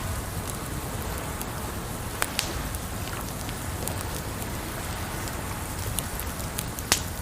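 Wood fire crackling, with a few sharp pops about two seconds in and a loud one near the end, over a steady rush of water.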